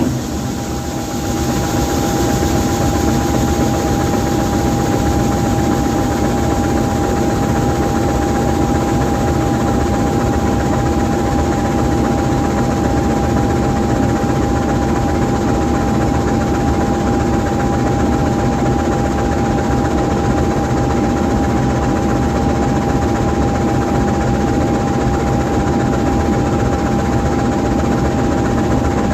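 GE U20C diesel-electric locomotive's V12 diesel engine running steadily while stationary, a low engine rumble with a constant high whine over it.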